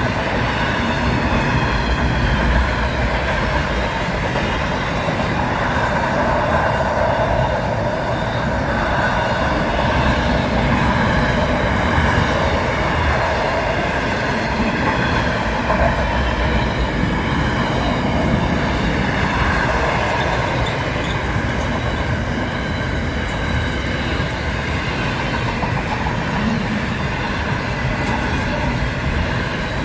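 Train running on the rails, a steady continuous noise with faint held tones above it.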